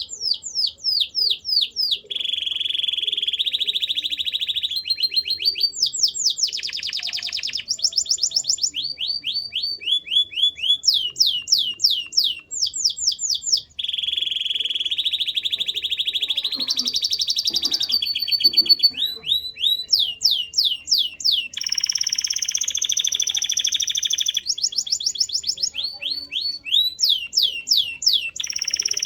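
Male canary singing: its song runs as phrases of rapid, repeated downward-sweeping notes, alternating with fast rolling trills held for a second or two, all high-pitched and unbroken.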